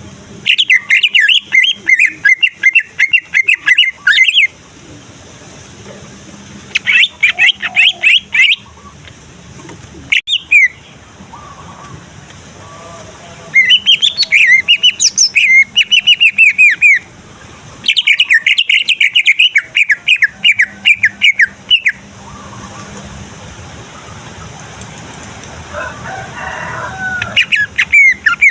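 Male cucak ijo (greater green leafbird) singing in loud bursts of rapid high notes. Each burst lasts up to a few seconds, with short pauses between them.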